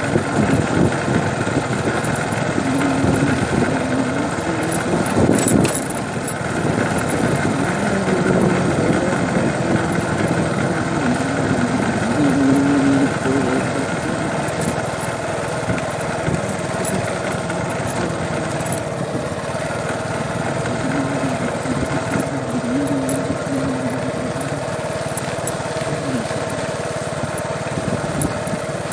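A small engine running steadily, with faint voices underneath.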